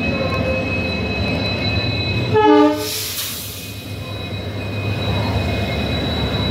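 Indian Railways express train passing close on the next track: the steady rumble of the train running, with one short locomotive horn blast about two and a half seconds in, then a brief hiss as the locomotive goes by.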